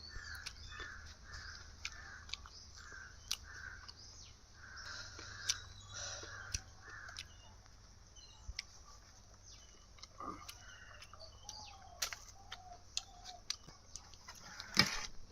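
Birds calling in the open: a run of repeated harsh, caw-like calls, about two a second, through the first half, with fewer calls later. Scattered sharp clicks and knocks run throughout.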